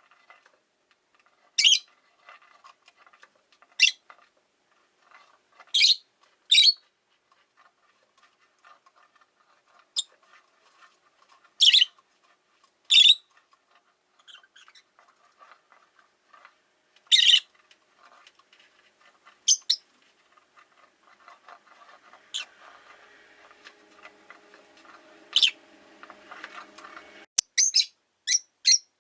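Rosy-faced lovebirds (Agapornis roseicollis) giving sharp, shrill single chirps every second or two, ending in a quick run of chirps near the end. A faint low hum sits underneath in the later part and cuts off suddenly.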